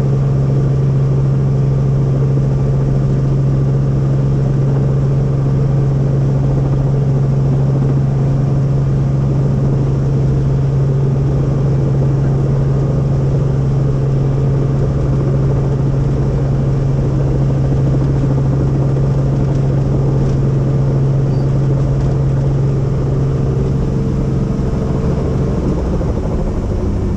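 Helicopter running, a loud, steady low drone of engine and rotor. Near the end its tone shifts slightly and it gets a little quieter.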